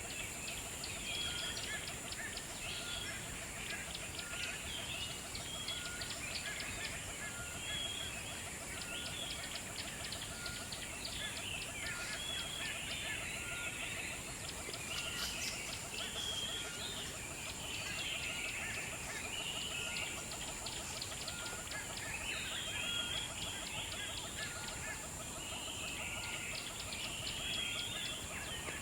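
Birds calling and chattering, with a short note repeated about once a second, over a steady high-pitched drone.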